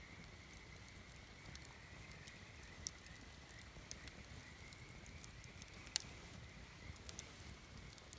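Campfire crackling, with scattered sharp pops from the burning wood; the loudest pop comes about six seconds in.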